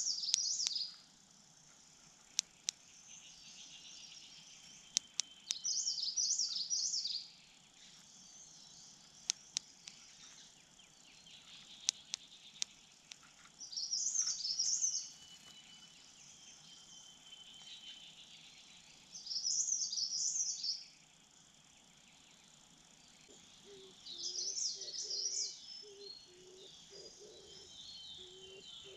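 A songbird singing short, high, warbling phrases of about a second and a half, repeated about every five to six seconds, with scattered sharp clicks between the phrases and a lower choppy call near the end.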